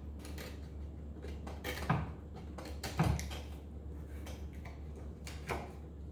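A blade cutting through the old hardened glue layer between a piano keystick's damper felt and the wood, in short crackling, cracking strokes, three of them louder than the rest. A steady low hum runs underneath.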